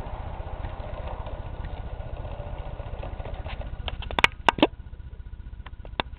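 Model train running on its track: a steady low rumble from the motor and wheels. It dies down after about three and a half seconds, followed by a cluster of sharp clicks and two more clicks near the end.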